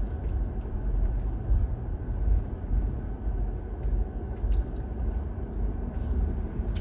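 A low, uneven rumble of background noise, with a few faint ticks.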